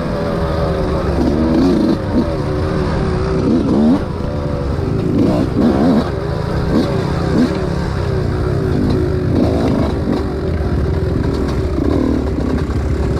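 Two-stroke enduro dirt bike engines revving, their pitch rising and falling again and again. At times two engines are heard at once, their pitches crossing.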